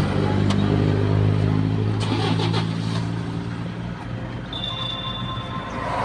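Toyota Hilux Vigo pickup's engine running steadily, easing off a little about four seconds in, with a few light clicks. A thin, steady high tone sounds over it for about a second and a half near the end.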